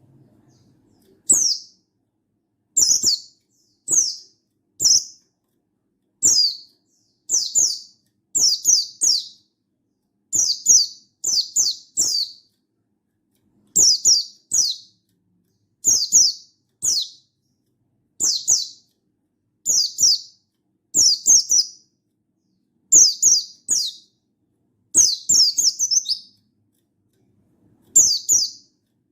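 Buxtoni white-eye (pleci buxtoni) giving repeated high, sharp calls. Each is a quick downward-sweeping note, coming about once a second and often doubled or tripled, with a short pause near the end.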